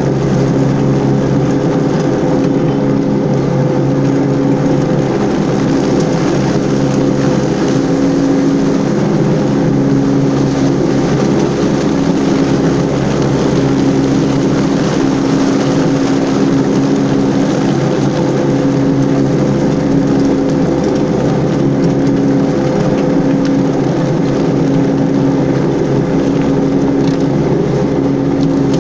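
Toro 3500-D Sidewinder mower's diesel engine running steadily under load with its cutting blades engaged, mulching leaves. It is running strong on a freshly replaced fuel filter that cured its fuel starvation.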